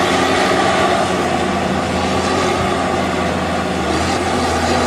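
Heavy machine engine running loudly and steadily, with a constant low hum and a wash of mechanical noise.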